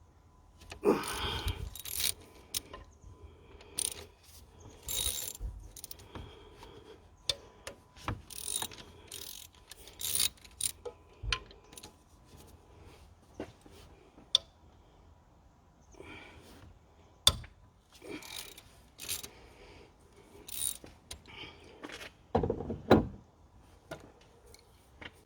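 Socket ratchet clicking in short bursts, with a few sharp metal knocks, as the 10 mm injector clamp bolts on a Ford Mondeo mk4 1.8 TDCi engine are cracked loose and undone.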